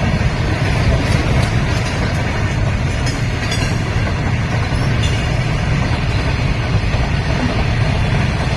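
Train running at speed on the rails: a loud, steady rumble of wheels and cars.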